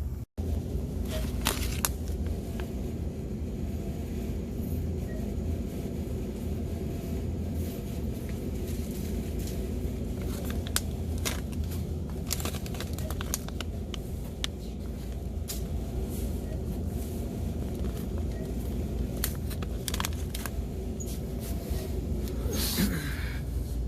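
Steady low rumble of indoor store background noise, with scattered light clicks and knocks through it.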